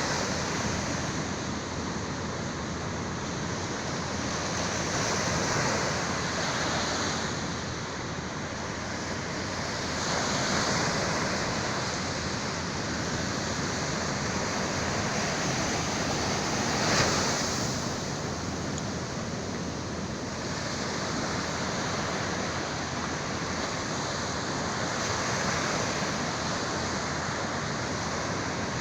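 Sea surf washing in, the continuous rush of the waves swelling and easing every few seconds, with one sharper surge a little past halfway.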